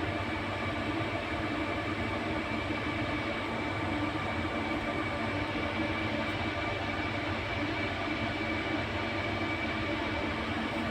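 Refrigeration equipment running steadily, a constant mechanical drone with several fixed hum and whine tones that holds level throughout.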